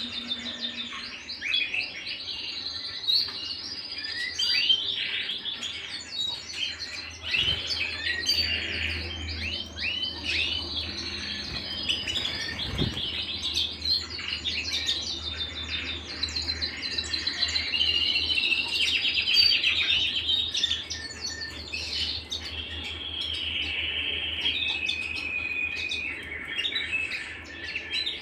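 Domestic canary singing a long, unbroken song of fast trills and rapidly repeated high notes, with changes of phrase every few seconds.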